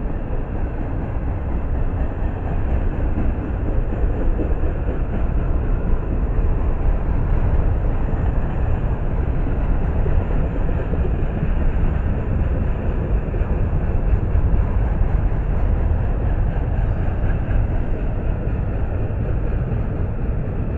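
Double-stack intermodal container well cars rolling slowly past on the rails: a steady, low rumble of freight car wheels on track.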